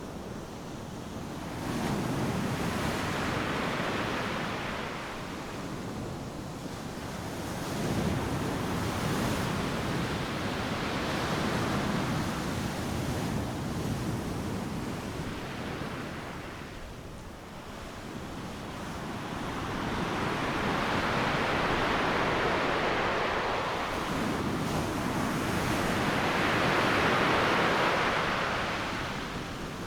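Ocean surf breaking on a beach: waves crash and wash in successive swells, with several loud surges and quieter lulls between them.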